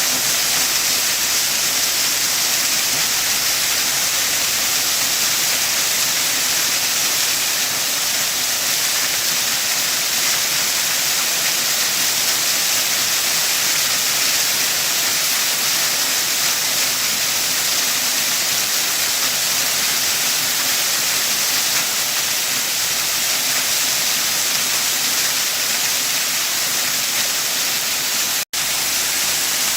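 Waterfall rushing, a steady hiss-like roar of falling water that cuts out for a split second near the end.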